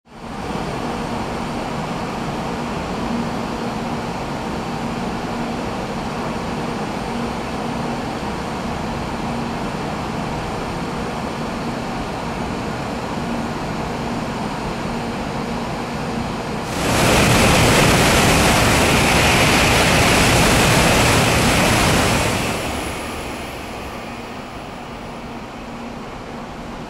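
Steady rumble and hum at a Shinkansen station platform as the 923 Dr. Yellow approaches. About 17 seconds in, a sudden loud rushing roar lasts about five seconds and then fades away.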